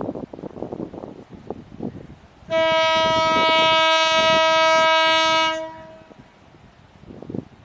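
Horn of a Class M8 (WDM2) Alco diesel locomotive giving one steady blast of about three seconds. Gusts of wind buffet the microphone before and after it.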